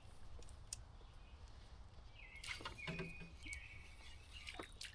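Faint bird calls: a few short, high whistled notes between about two and four seconds in, over a quiet outdoor background with a few light clicks.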